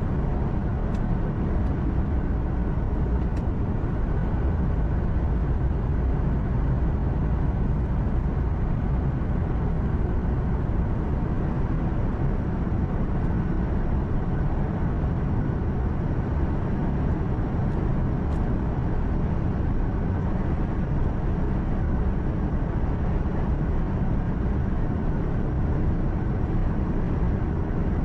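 Truck cabin at highway speed: a steady low engine hum with tyre and road noise and no change in pitch or level. A few faint ticks sound over it.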